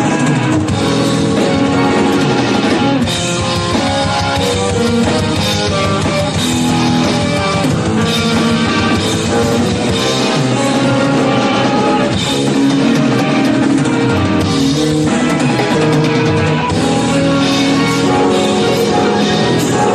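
Live band of drum kit, electric bass, keyboards, saxophone and electric guitar playing a rock-style instrumental number, with the drum kit and guitar prominent.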